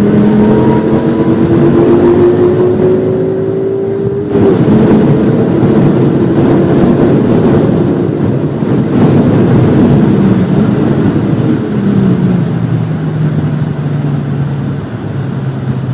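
Volvo V50 T5's turbocharged five-cylinder engine under full throttle, rising in pitch, with an upshift about four seconds in, then rising again. Near the end it falls away under braking to a lower, steadier note.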